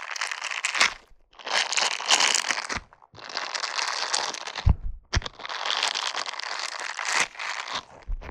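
Silicone brush being brushed in long, scratchy, crinkly strokes, in four passes separated by short pauses.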